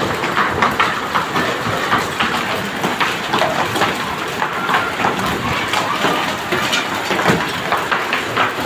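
Rain and hail falling hard: a steady rushing hiss with many irregular sharp taps and clatters from hailstones striking surfaces.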